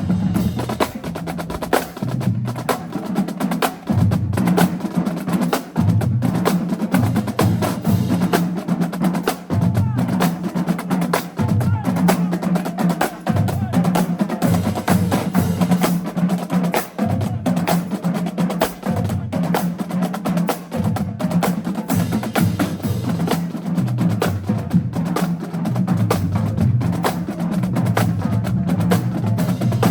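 High school marching band drumline playing a marching cadence: fast snare strokes and rolls with sharp rim clicks over low drums that step through a repeating pitched pattern.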